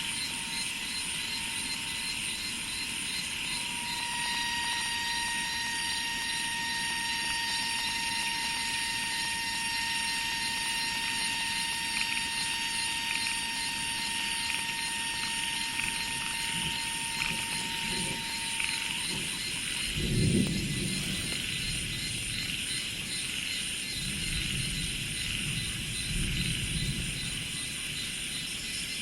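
Steady high-pitched insect chorus over rice fields, with a thin sustained tone that runs through the first two-thirds and then stops. A low rumble swells about two-thirds of the way in and again near the end.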